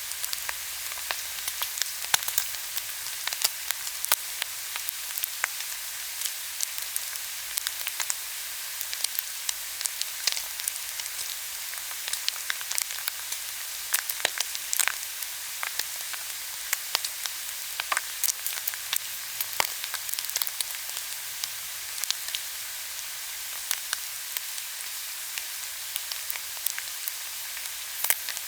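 Pork belly and kimchi sizzling on a hot grill, a steady fatty hiss with frequent sharp crackles and pops of spitting fat.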